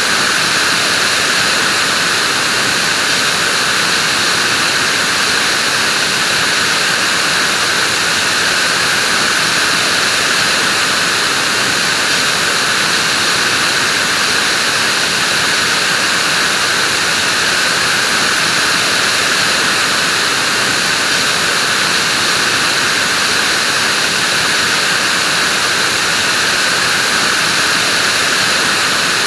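Vacuum cleaner running steadily: an even, unchanging rushing whine with most of its energy in the upper range.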